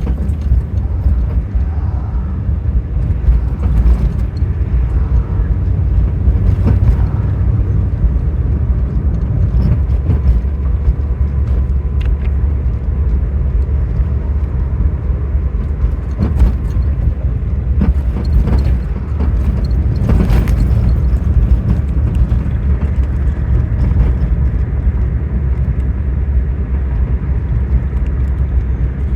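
Steady low rumble of road and engine noise inside a moving car, with occasional short thumps and knocks as the car goes over a rough street.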